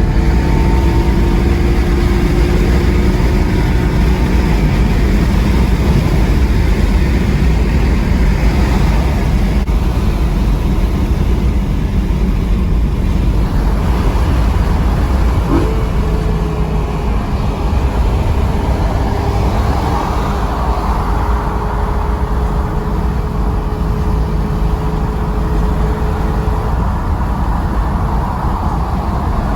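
BMW E93 M3's S65 V8 running through an exhaust with the catalytic converters cut out and the muffler still in place, a loud, steady, deep exhaust note.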